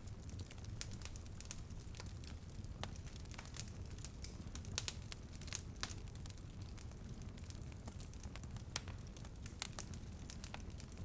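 Wood fire crackling in a fireplace: irregular sharp pops and snaps, a few louder ones about five and nine seconds in, over a steady low rumble.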